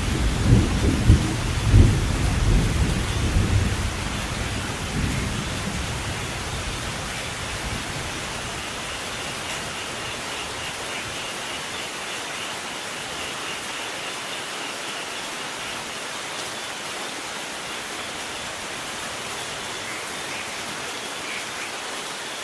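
Thunder rolling and rumbling in the first few seconds, then dying away, over steady heavy rain.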